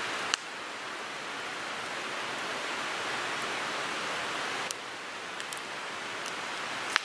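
Wood fire burning in a Picogrill 398 fire grill: a steady hiss with a few sharp crackling pops, the loudest about a third of a second in and just before the end.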